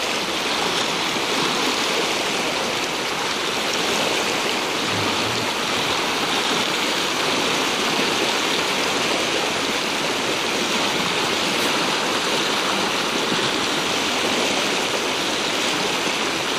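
Mountain creek in flash flood rushing loudly and steadily, swollen over its banks and spilling onto the floodplain.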